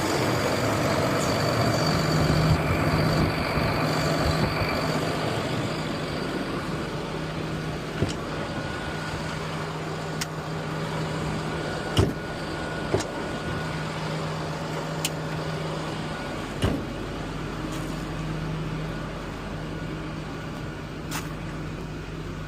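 Box truck engine idling steadily with a low hum. A few sharp knocks or clicks come through about a third of the way in and again past the middle.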